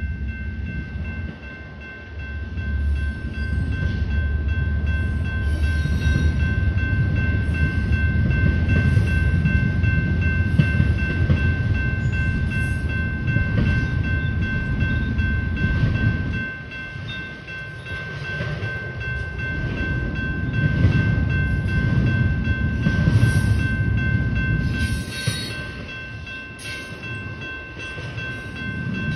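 Union Pacific double-stack intermodal freight train rolling past, its wheels rumbling and clattering on the rails, with a steady high ringing tone over it. The rumble dips briefly about halfway through, then builds again.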